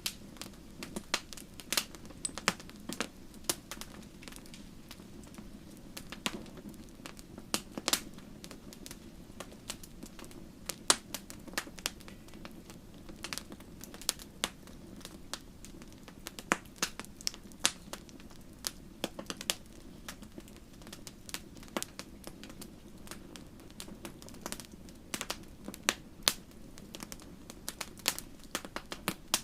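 Fire crackling: irregular sharp pops and snaps, some much louder than others, over a steady low background.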